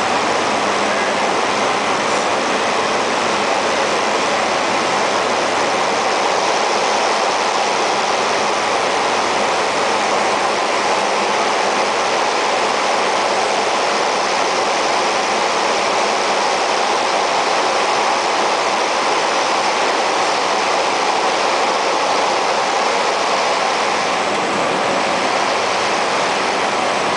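Cessna Caravan turboprop aircraft, a loud steady rushing noise of engine and airflow that holds at the same level throughout.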